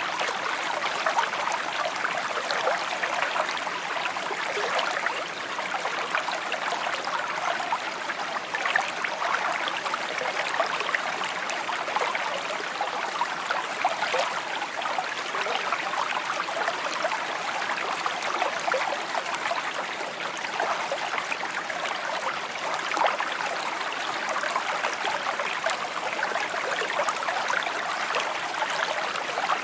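Shallow stream babbling and trickling steadily over stones, a constant bright burble of small splashes.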